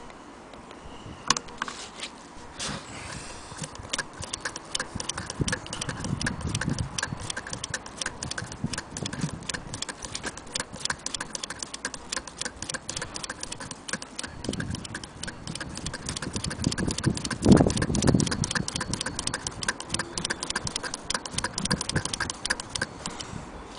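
Willcox & Gibbs chain-stitch sewing machine running, its mechanism clicking fast and steadily at about five or six ticks a second, with a few duller knocks mixed in.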